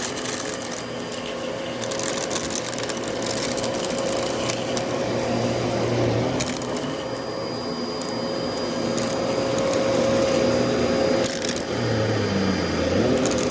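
Dyson DC33 upright vacuum running with a steady whine, its brushroll crackling and crunching as it picks up dry debris.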